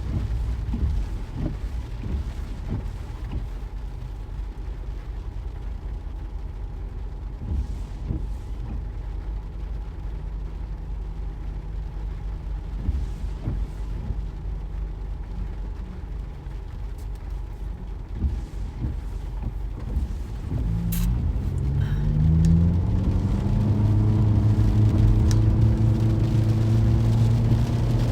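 Car driving: low road and engine rumble with scattered small knocks, then about 20 seconds in the engine note rises as the car accelerates and settles into a steady, louder drone.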